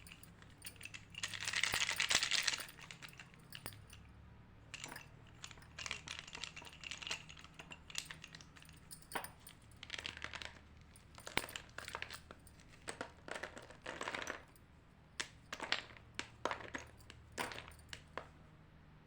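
White chalk being crunched: irregular crisp cracks and crunches, with a denser, louder bout of crunching about two seconds in.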